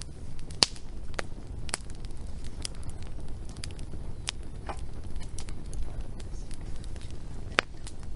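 Wood fire crackling, with irregular sharp pops and snaps over a low steady rumble; the loudest pops come about half a second in and near the end.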